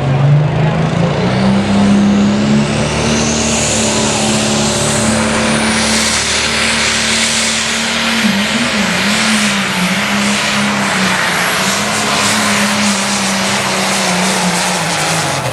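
Light pro stock pulling tractor's turbocharged diesel engine revving up and running at high rpm under load, a high whine rising over it in the first few seconds. The engine note wavers a little past halfway and falls off near the end.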